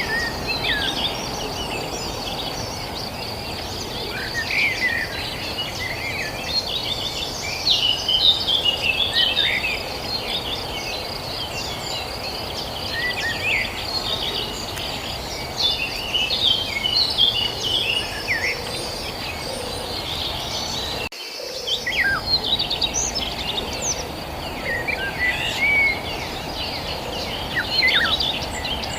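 Many small birds chirping and calling over a steady high insect drone and a low background hiss. About two-thirds of the way through, the sound drops out for a moment.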